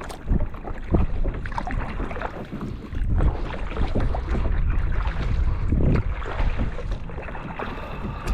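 Kayak paddle strokes dipping and splashing in calm water every second or two, over a low rumble of wind buffeting the microphone.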